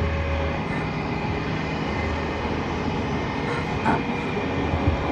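Running noise of an E231-series electric commuter train: a steady rumble of wheels on track with a low hum and faint steady tones, and a couple of short clacks near the end.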